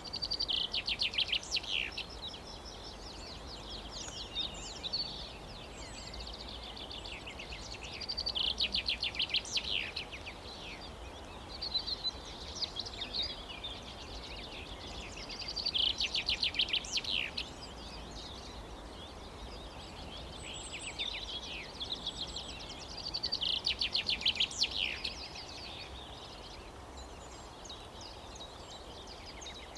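A songbird singing outdoors: four loud phrases, each a rapid run of repeated notes, come roughly every seven to eight seconds, with quieter calls between them over a faint steady low background hum.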